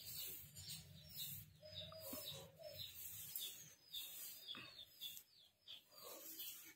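A pet parrot making soft, scattered chirps, with one short held note about two seconds in.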